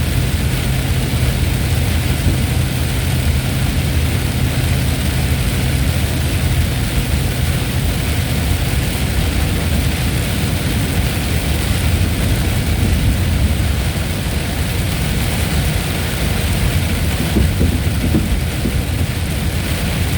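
Steady heavy rain hissing, with a deep continuous rumble underneath.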